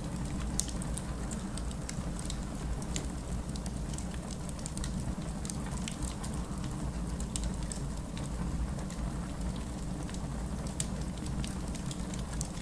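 Wood fire in a fireplace crackling, with many sharp irregular pops and ticks over a steady low rumble.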